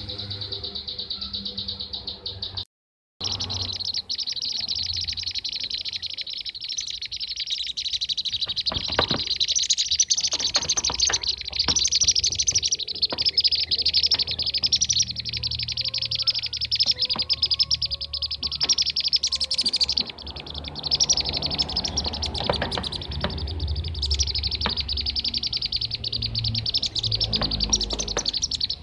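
Bee-eaters (kirik-kirik) calling: a dense, continuous, high-pitched chattering of rapid chirps, cutting out briefly about three seconds in.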